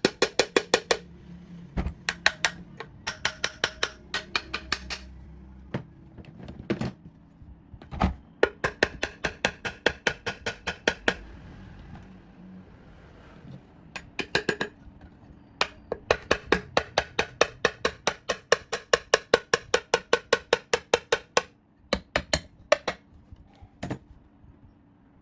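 Rapid, even taps of a hammer on a metal part, about five a second, each with a short metallic ring. They come in several runs broken by short pauses.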